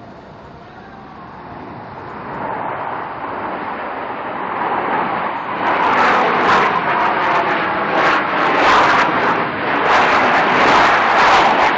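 Aircraft engine noise swelling steadily louder as a plane approaches on a flyby, growing rough and gusty over the last half.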